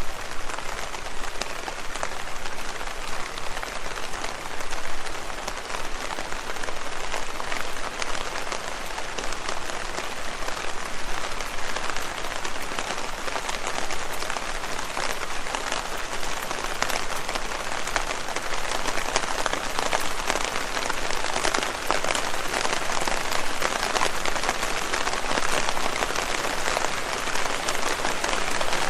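Steady rain falling on leaves: a dense hiss of many small drop patters, unbroken throughout.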